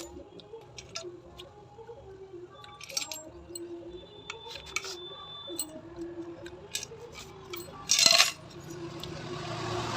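Small metal engine parts and tools clinking and tapping as they are handled, in scattered light clicks. About eight seconds in there is a brief louder noisy burst, and near the end a steady noise builds up.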